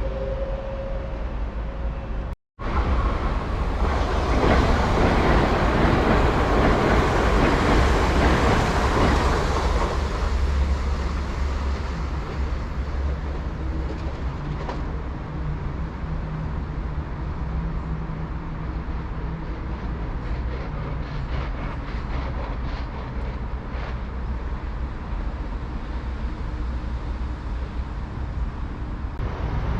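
A passenger train running by on the tracks: wheel-on-rail noise and a low rumble, loudest from about three to ten seconds in, then settling to a steadier run with a series of faint clicks. The sound cuts out for a moment about two seconds in.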